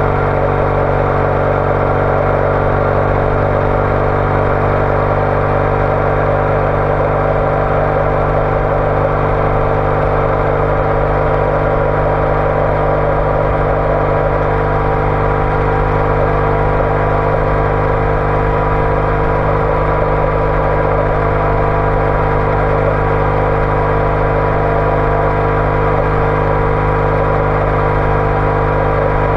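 Triumph Bonneville T214's air-cooled parallel-twin engine running through an aftermarket TOGA exhaust, holding a steady engine speed while cruising, with no change in revs.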